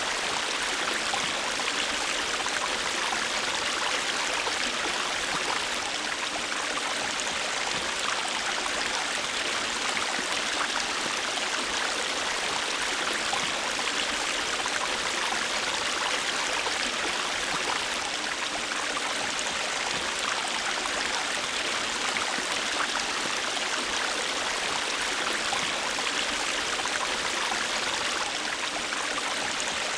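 River water flowing, a steady rushing with fine splashing and trickling and no change in level.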